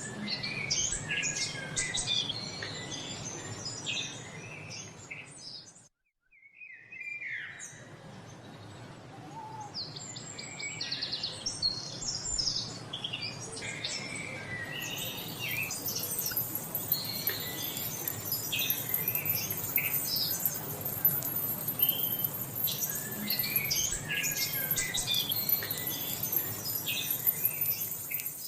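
Many songbirds chirping and singing together in a dense chorus of short calls and trills. About six seconds in it cuts out briefly, and from about halfway a steady high-pitched hiss runs under the birdsong.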